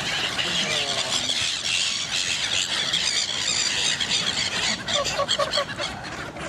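A flock of birds calling over one another while squabbling, a dense high-pitched squealing chatter, with a few lower honking calls about a second in and again around five seconds.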